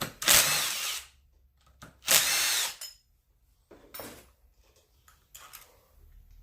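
Power impact wrench run in two short bursts, each under a second long, with a whining motor, loosening a nut on a McCulloch 7-10 chainsaw; a few light knocks follow.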